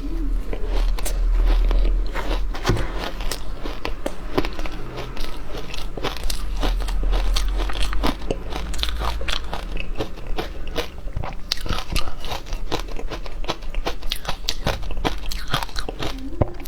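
Frozen matcha ice being bitten and chewed close to the microphone: a dense run of sharp crunches and cracks. A low rumble runs under roughly the first half.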